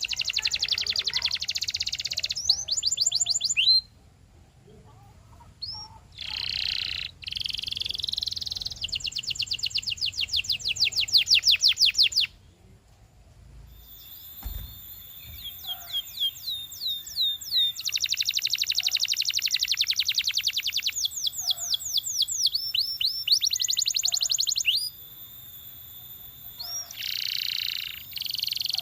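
Domestic canary singing: fast trills of rapidly repeated high notes in phrases a few seconds long, broken by short pauses.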